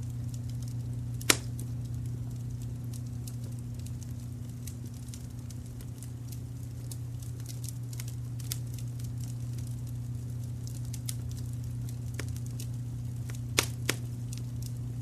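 Wood fire crackling, with scattered small clicks and three louder pops: one about a second in, and two close together near the end. A steady low brown-noise rumble runs underneath.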